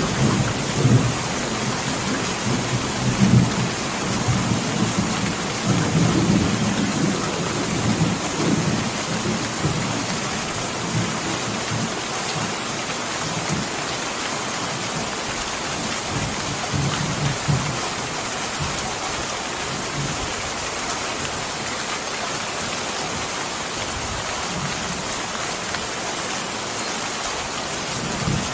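Steady heavy rain falling on surfaces, with low rumbles of thunder swelling and fading, strongest in the first ten seconds or so and briefly again later.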